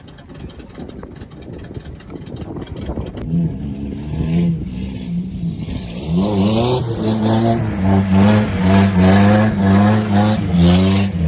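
Truck engine revving hard, over and over, to spin its 32-inch tyres. It starts with a crackling noise, then from about three seconds in the pitch climbs and drops repeatedly, getting louder from about six seconds in.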